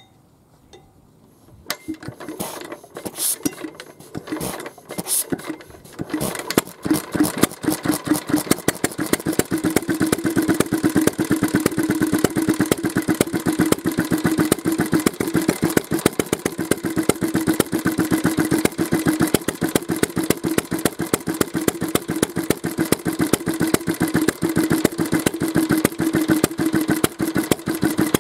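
Old Mitsubishi J1A-type kerosene stationary engine starting: it catches about two seconds in, fires unevenly for a few seconds, then settles into a steady, fast, even running beat.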